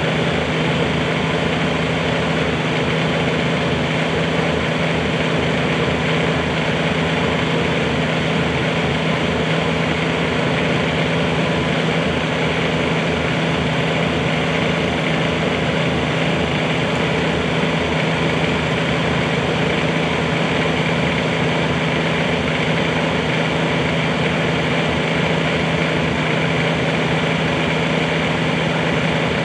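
Bobcat 320 mini excavator's diesel engine running at a steady speed, with no revving or change in pitch.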